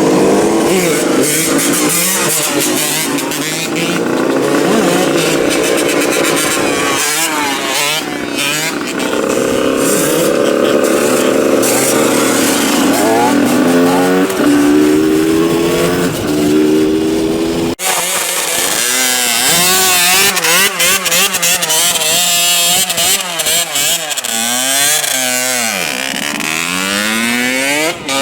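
125 cc two-stroke supermoto engine being ridden hard, its pitch repeatedly climbing under acceleration and dropping at each gear change or off the throttle. The sound changes abruptly about two-thirds of the way through.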